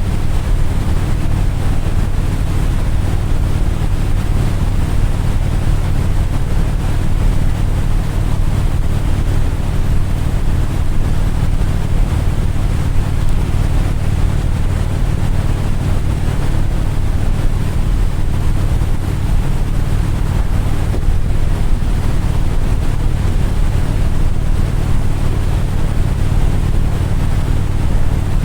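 Steady low engine drone with wind rushing over the microphone, unchanging throughout.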